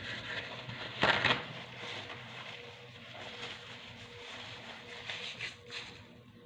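Close-up eating sounds: chewing and crackling, with a louder crunching burst about a second in.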